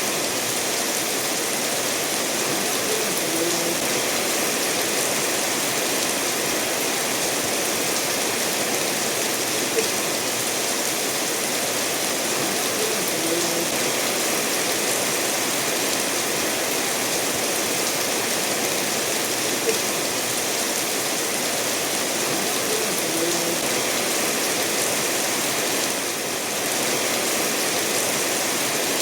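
Steady rain mixed with a stream running over stones, an even continuous hiss, with a few faint short ticks every several seconds.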